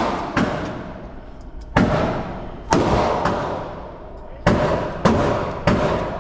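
Gunshots at a shooting range: about six sharp reports at irregular spacing, a second or so apart, each followed by a long echoing decay.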